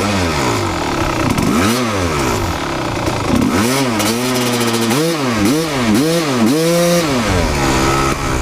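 Kawasaki KX250 two-stroke single-cylinder engine revved up and down again and again, with several quick blips in a row in the second half, then holding a steadier note near the end. The clutch is pulled in but not disengaging, stuck after the bike sat with contaminated gear oil.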